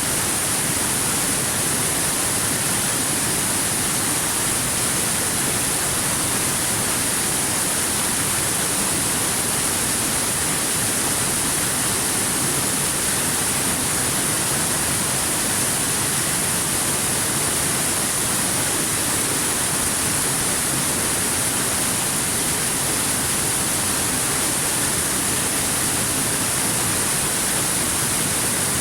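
Waterfall: a steady, unbroken rush of falling water with a strong high hiss, unchanging throughout.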